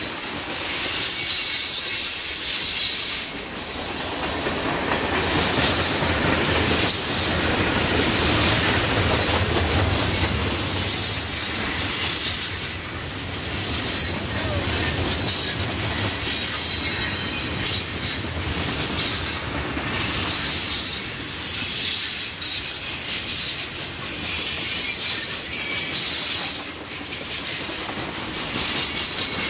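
Freight train cars rolling past: steel wheels rumbling and clattering over the rail joints, with short high-pitched wheel squeals coming and going. A louder knock stands out near the end.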